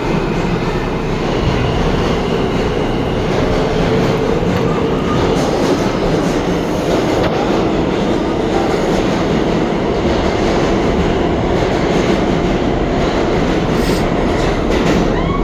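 R68 subway train running through an underground station: a loud, steady rumble of wheels on rail with clatter, and a short wheel squeal near the end.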